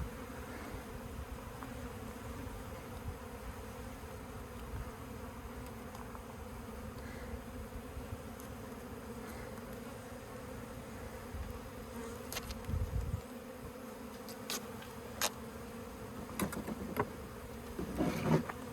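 Honeybee colony buzzing: a steady hum of many bees flying around the opened hive. A few sharp clicks and a low bump come in the second half.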